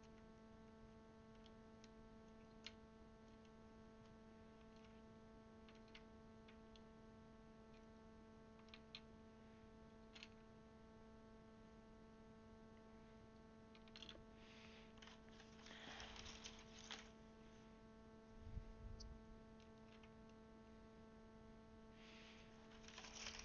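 Faint scattered clicks, then a burst of clattering about two-thirds of the way through and again near the end, from plastic keycaps being handled and pressed onto a mechanical keyboard's switches, over a steady low electrical hum.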